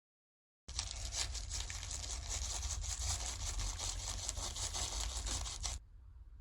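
Slime being worked by hand: a dense crackle of many small pops and squishes that starts suddenly and cuts off abruptly about five seconds later.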